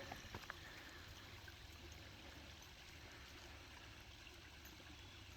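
Faint, steady sound of water running, a stream or runoff swollen by hard overnight rain. A few light clicks come in the first half second.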